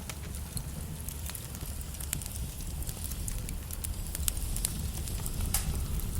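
Logs burning in a fireplace, crackling with irregular sharp pops over a low, steady rumble of the flames.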